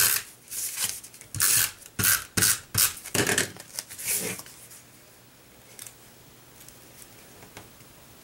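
Snail tape runner rolled across cardstock in several short rasping strokes, stopping about four and a half seconds in.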